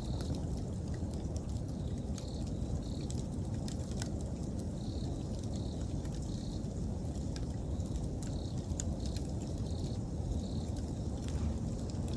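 Wood campfire burning with a steady low rumble and scattered crackling pops, while autumn insects give short high chirps, mostly in little runs of two or three.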